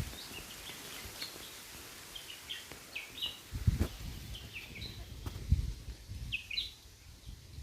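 A bird chirping outdoors in short repeated calls that come in little groups, with a couple of low thumps in the middle.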